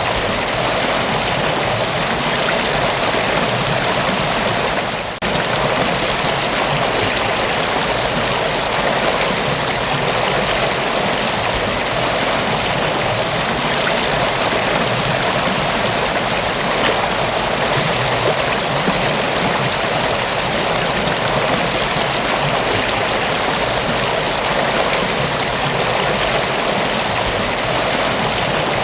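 Mountain waterfall pouring steadily, a dense, even rush of water with a brief drop in level about five seconds in.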